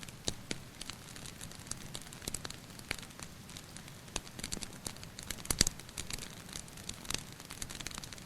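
Wood fire crackling with irregular sharp pops over a steady soft hiss of rain. One pop about five and a half seconds in is louder than the rest.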